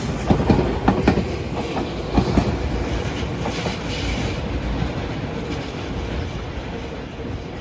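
A Tobu line train running past, its wheels clacking over rail joints for the first couple of seconds, then a steady running rumble that slowly fades.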